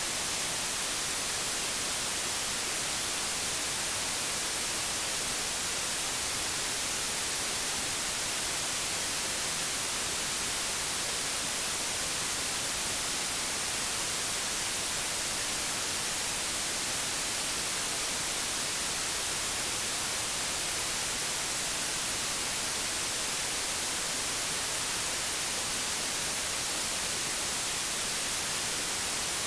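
Old television's static hiss, steady and unchanging, brighter toward the high end.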